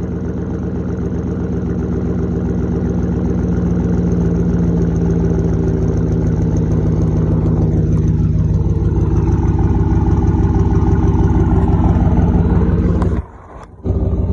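A 2009 Chevy Silverado's engine idles steadily through a straight-piped side-exit exhaust with no muffler, a few minutes after a cold start. The sound cuts out briefly near the end.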